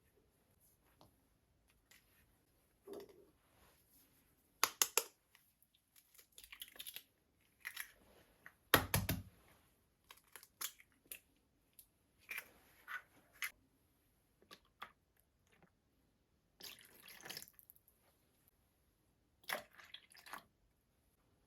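Intermittent kitchen handling sounds: sharp clicks and knocks, with one heavier thump about nine seconds in, and a few brief splashy stretches of liquid pouring or running water.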